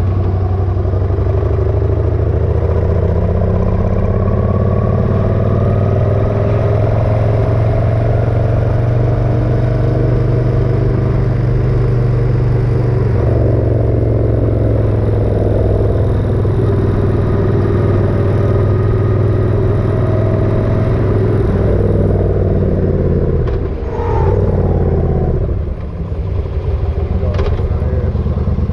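Motorcycle engine running steadily while under way, its pitch drifting up and down a little with the throttle. It dips briefly twice near the end.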